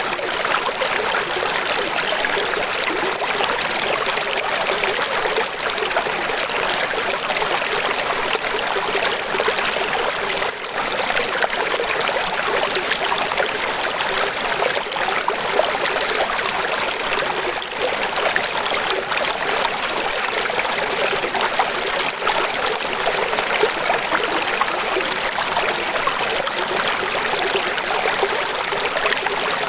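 Running water splashing and rushing steadily, a bright hissing wash with little low rumble.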